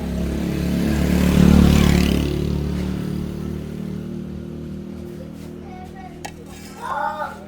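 A motor vehicle's engine passing close by, growing loud about a second and a half in and then fading slowly away.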